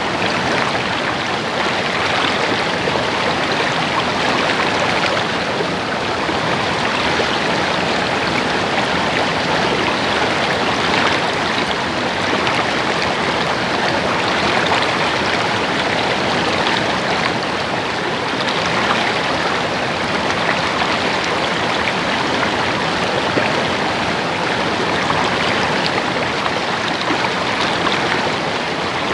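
A stream babbling and splashing over rocks, a steady, dense rush of water without breaks.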